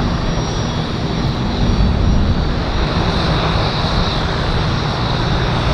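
Fixed-wing aircraft engines running loud and steady: a dense low rumble with a thin high whine over it.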